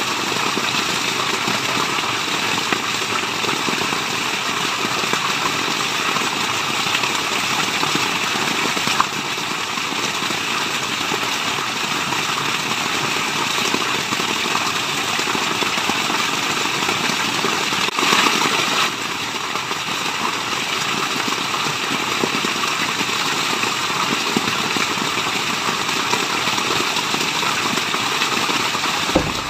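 Waterfall: steady rushing of falling water, with a brief slightly louder swell about two-thirds of the way through.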